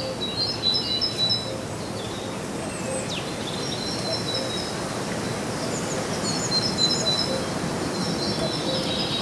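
Songbirds chirping and singing in short, repeated high phrases over a steady background hiss, with faint low notes recurring beneath.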